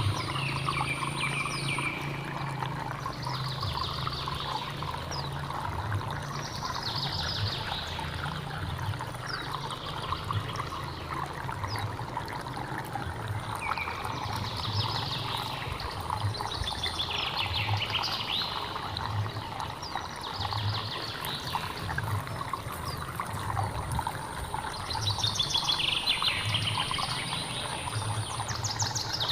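Steady flow of a hill stream, with wild birds calling over it in repeated falling, trilling phrases every few seconds, louder a few seconds before the end. A thin, high, steady tone comes and goes.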